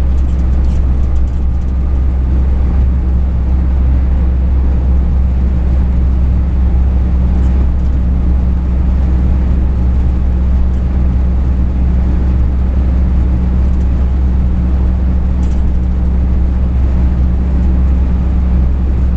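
Truck engine and road noise while driving: a steady low drone that holds level throughout.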